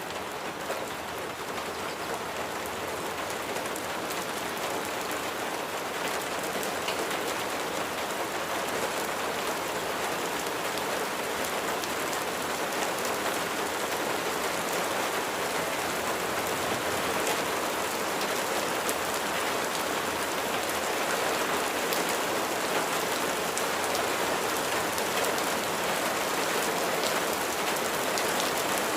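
Steady rain falling: a dense hiss of drops with scattered sharper drop ticks, slowly growing louder.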